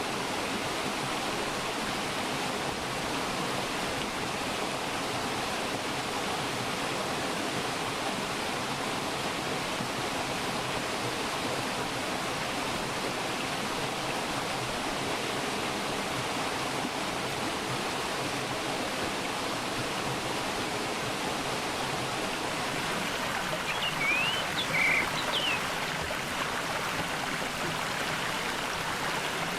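Mountain valley stream flowing steadily over rocks, an even rushing of water. About 24 seconds in, a bird gives a few brief high chirps over it.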